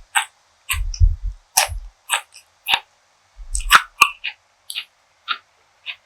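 Close-miked chewing of food: irregular sharp wet mouth clicks and smacks, with a few low thuds.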